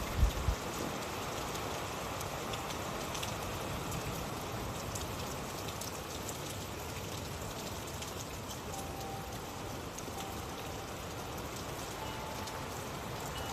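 Steady rain falling, a continuous hiss with scattered fine drop ticks. Two brief low thuds come just after the start.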